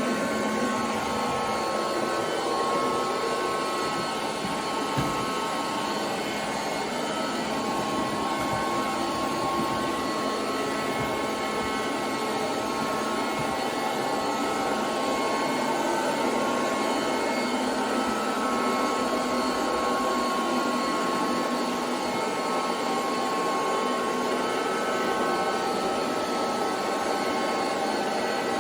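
SilverCrest robot vacuum cleaner running steadily, its motor a constant whirring hum with a thin whine, and a single light knock about five seconds in.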